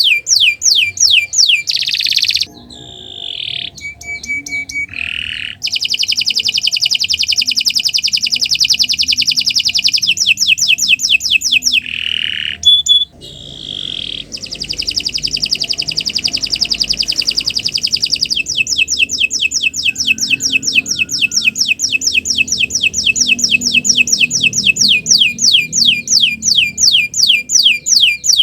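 Domestic canary singing a long, continuous song of fast rolling trills, each a rapid run of repeated high notes sweeping downward, with a few brief breaks and changes of phrase.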